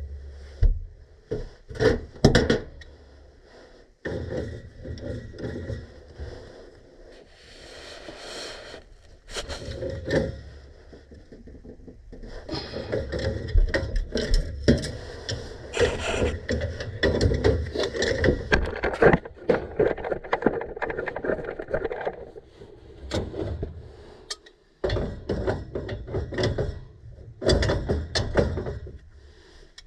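Hand tools and metal parts being handled on a furnace during a gas valve replacement: irregular clicks, knocks and scraping, with a few sharp knocks near the start and busier clattering through the middle.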